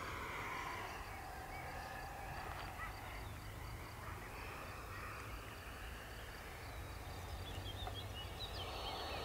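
Faint outdoor background with a few short, high bird chirps, most of them near the end, over a low steady rumble.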